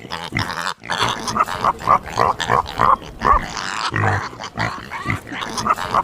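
Pig grunting over and over in short calls, several a second.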